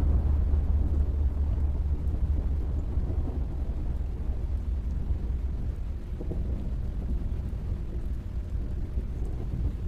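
Recorded thunderstorm ambience: a steady rain hiss over a low, continuous thunder rumble, slowly fading. It is the storm outro of a sped-up rock track, the music having ended.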